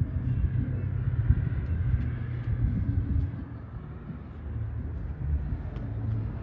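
A vehicle engine idling: a steady low rumble, easing off slightly midway.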